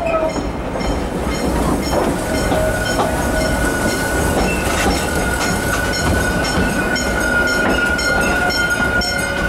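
Narrow-gauge amusement-park train running along its track, heard from an open-sided passenger car: a steady rumble with regular clicking of the wheels over the rails. About two seconds in, a steady high whine comes in and holds.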